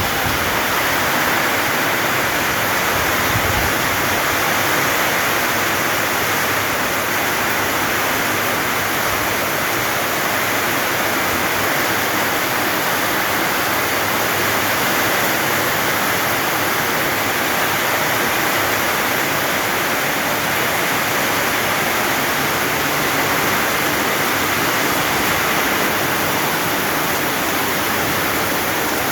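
Rain pouring down, a steady, loud, even hiss with no let-up.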